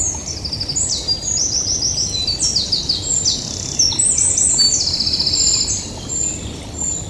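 Songbird singing in woodland: a fast, high-pitched song of trilled runs and quick falling notes, repeated phrase after phrase, over a steady low rushing background.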